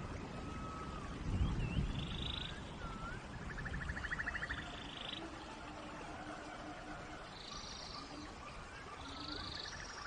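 Steady rain hiss with animal calls over it: short swooping whistled notes and rapid buzzy trills, repeated several times. A brief low rumble comes about a second and a half in.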